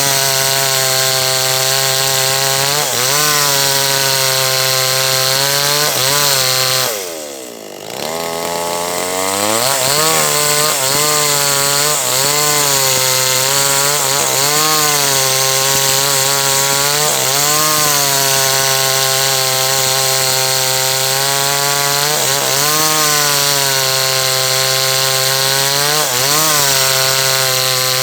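H&L Pro 5800 two-stroke chainsaw running at high revs while cutting a large teak log, its pitch sagging briefly under load every few seconds. About seven seconds in it drops off toward idle, then revs back up and carries on cutting.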